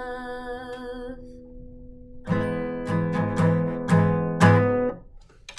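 Acoustic guitar closing a song: a held chord rings out and fades, then five strummed chords about half a second apart, the last one cut off about five seconds in.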